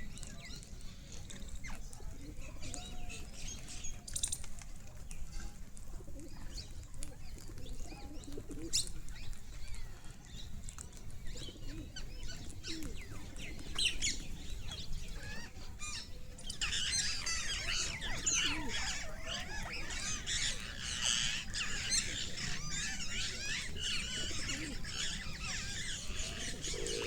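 Parrots calling: scattered short squawks and chirps at first, then, about two-thirds of the way in, a dense continuous chatter of many birds.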